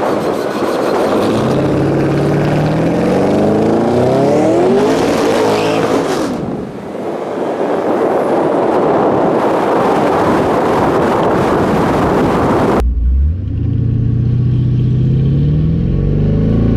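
Twin-turbo 427 small-block Chevy V8 in a C3 Corvette accelerating on the street, its pitch climbing repeatedly under a loud rushing noise. About two-thirds of the way through the sound changes suddenly to a lower, closer engine note that rises again as it accelerates.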